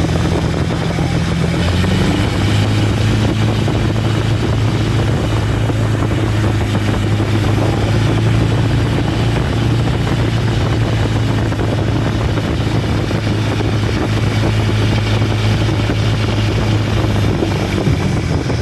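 Inboard engine of a vỏ lãi wooden speedboat running steadily underway. Its low drone shifts slightly lower about two seconds in, then holds even.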